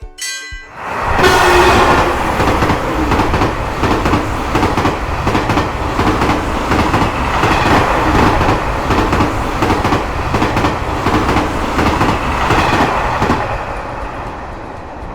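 The level-crossing bell dings its last strokes, then a train passes through the crossing with its wheels clacking quickly over the rail joints. The passing noise starts about a second in and fades out near the end.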